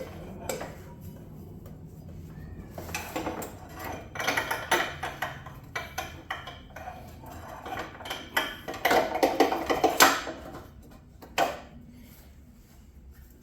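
Metal parts clinking and scraping as a motorcycle front axle and its spacers are worked into place, in irregular clusters of clinks with one sharp knock near the end.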